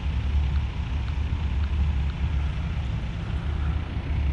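Heavy diesel truck engine idling steadily, a low even rumble.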